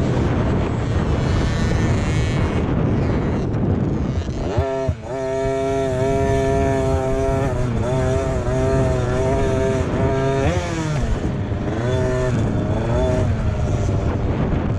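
Motocross dirt bike engines running hard. Early on a loud mix of engines; about four and a half seconds in, one bike's engine note comes to the fore, held steady and then wavering up and down with the throttle, dropping away about ten seconds in, with shorter revs after.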